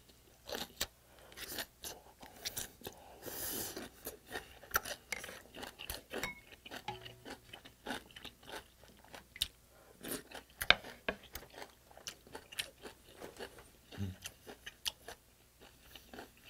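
Close-miked chewing and crunching of kimchi, with many small, irregular wet mouth clicks and crackles.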